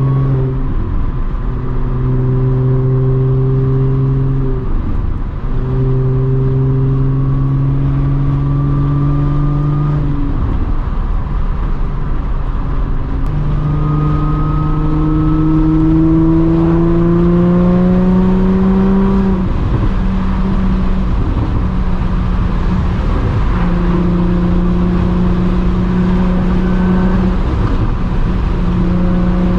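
Audi S4 B8.5's supercharged V6 running through an AWE exhaust on test pipes while driving: a steady exhaust drone that drops off briefly a few times and climbs slowly in pitch for several seconds in the middle.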